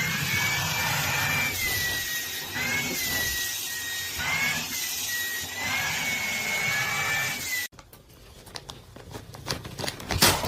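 A small motor running with a steady hiss and a whine that wavers up and down in pitch; it cuts off suddenly near the end, leaving a few clicks and knocks.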